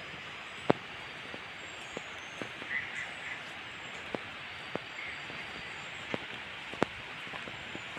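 Steady outdoor hiss with a few faint, brief bird chirps, broken by sharp clicks or taps every second or so at an irregular pace.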